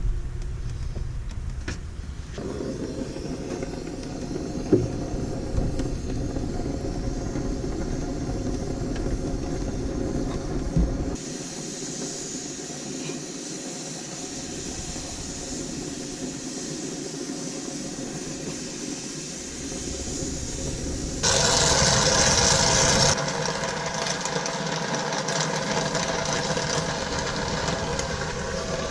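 Gas soldering torch flame running steadily on copper refrigerant line joints, a rushing hiss that turns higher about a third of the way in, with a louder burst of hiss lasting about two seconds past two-thirds of the way through.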